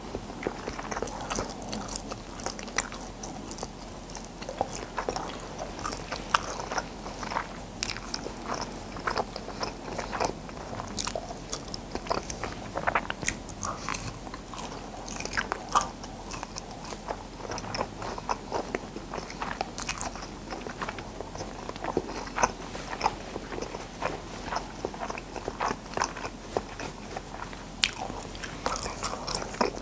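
A person biting into and chewing a snack close to the microphone, with many quick crisp crunches and wet mouth sounds.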